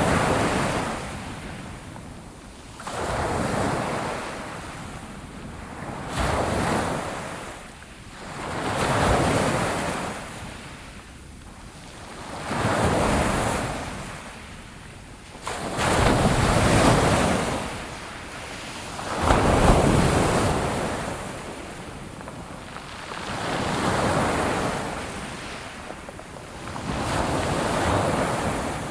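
Sea waves breaking on a shore: surf surges in about every three to four seconds, swells to a loud rush and ebbs away before the next wave.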